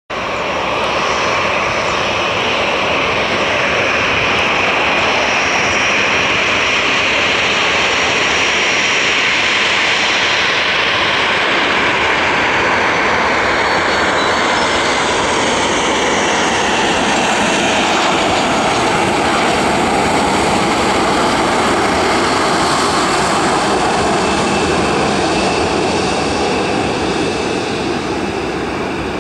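Boeing 737-400's CFM56-3 turbofan engines on landing: a steady, loud jet rush with a high whine that falls in pitch about halfway through, then eases off slightly near the end.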